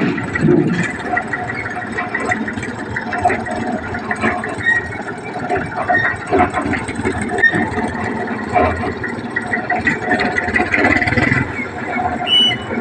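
Engine of a homemade jugaad tractor running steadily, with a busy, rattling texture.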